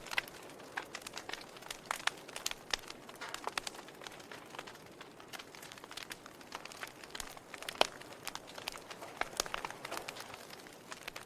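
Wood fire in a fireplace crackling, with irregular small pops and snaps over a soft hiss and one sharper pop about eight seconds in.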